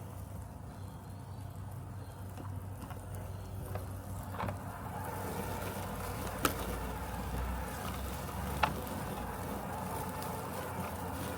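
Robotic lawn mower running with a steady low hum, growing a little louder about halfway through. Two sharp clicks stand out in the second half.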